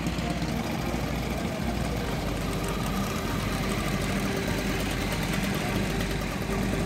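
Vintage pre-war motorcycle engines running at low speed as the old bikes ride slowly past, a steady uneven engine beat.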